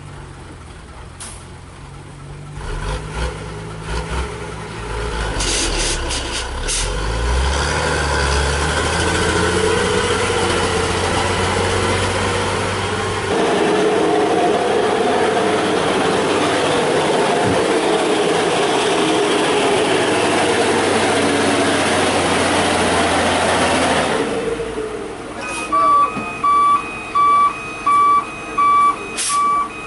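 Heavy coal-laden truck's diesel engine labouring up a steep grade, rising and swelling over the first seconds, then a heavy dense running sound that drops off after about 24 seconds. Near the end a reversing beeper sounds in regular beeps, about one and a half a second.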